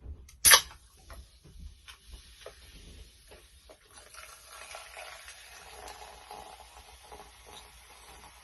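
Chicken frying in hot oil: a sharp knock about half a second in and scattered clicks, then a steady sizzle from about halfway through.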